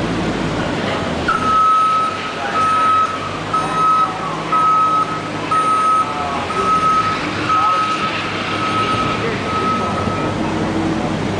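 Vehicle backup warning beeper sounding about once a second, roughly nine beeps, over a vehicle engine running.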